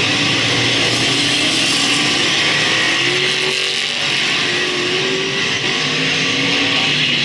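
Several speedway race car engines running hard around the track, with overlapping engine notes rising and falling as the cars pass.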